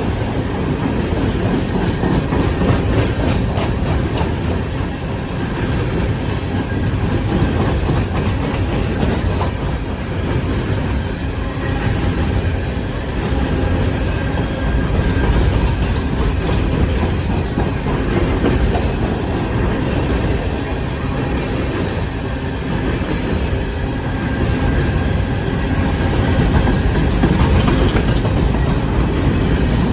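Westbound CSX empty coal train rolling past, its hopper cars giving a steady, unbroken run of wheel and rail noise.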